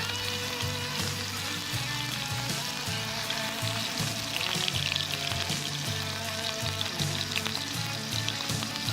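Steak sizzling and frying in a pan over a campfire stove, a steady crackling sizzle.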